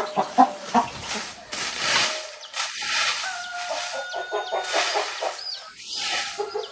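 Chickens clucking in short repeated runs, with a few longer held calls in between.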